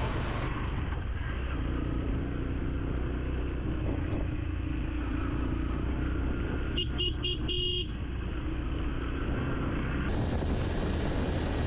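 Motorcycle engine running steadily on the move, with road and wind noise. About seven seconds in, a vehicle horn beeps several times in quick succession.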